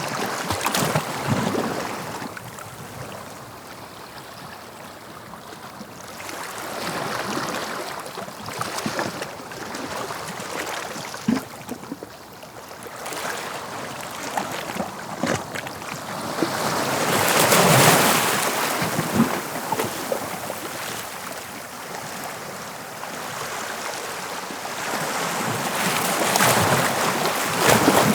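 Sea waves breaking on the shore and washing back, a steady rush that swells with each breaker about every eight to nine seconds; the loudest break comes about two thirds of the way in.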